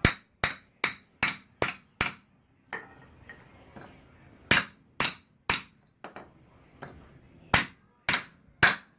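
A hammer striking metal in groups of quick blows, about two and a half a second, driving a slide pin home to fix an engine mount tight. After the strikes the metal keeps ringing in a high tone.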